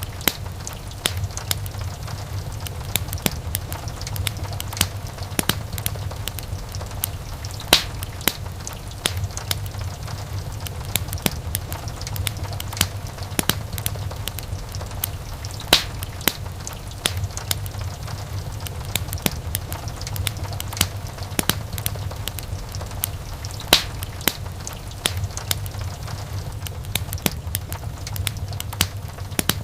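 Wood fire burning in a fireplace: a steady low rumble of flames under frequent irregular crackles, with a few louder pops.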